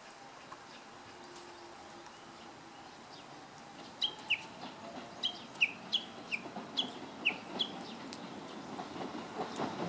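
Japanese bush warbler calling: a quick run of about ten short, sharp notes, each falling in pitch, starting a few seconds in. A low rumble builds near the end.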